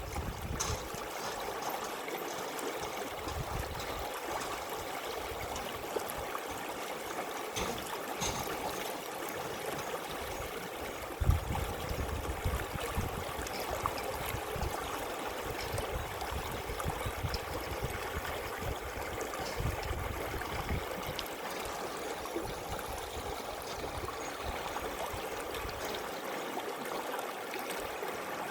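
River water flowing and babbling steadily, with uneven low rumbles underneath and a single thump about eleven seconds in.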